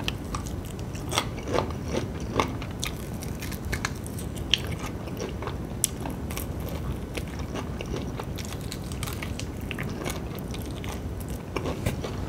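Biting and chewing crispy fried chicken: irregular sharp crunches and crackles of the breading scattered throughout.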